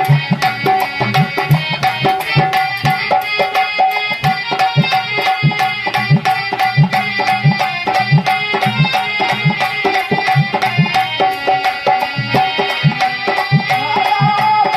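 Dholak played in a fast, driving rhythm, its deep bass strokes coming in a steady pattern under a held melody note.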